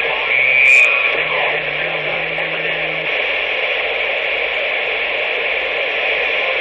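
CB radio receiver hiss: steady static from an open channel with no one talking, with a brief louder burst of noise in the first second.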